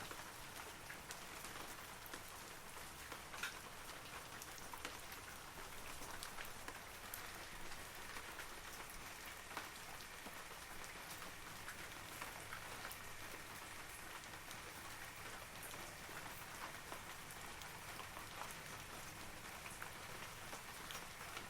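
Steady light-to-moderate rain falling on forest foliage, an even hiss with many small droplet taps and an occasional louder drip.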